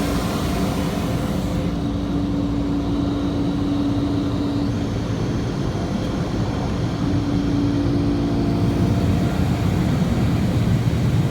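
Steady drone of touchless automatic car wash machinery heard from inside a car with its windows up, carrying a constant hum that drops out for a couple of seconds midway and returns. A hissing layer drops away about two seconds in.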